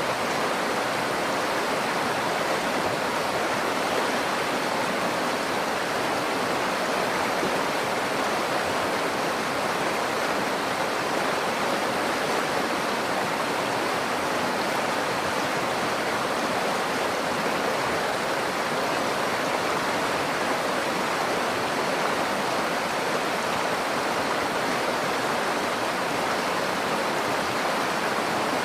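Nakdong River water flowing: a steady, unbroken rush of running water.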